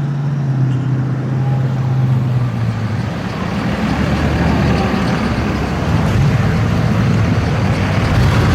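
Muscle car V8 engine rumbling at low revs with a steady low note, turning into a rougher, fuller rumble about three seconds in.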